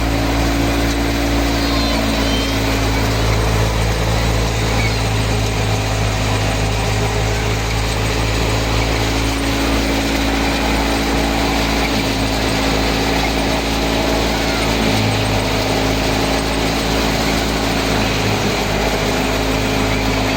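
An Al-Ghazi farm tractor's diesel engine runs steadily under load, driving a wheat thresher. The machinery makes one continuous, even drone.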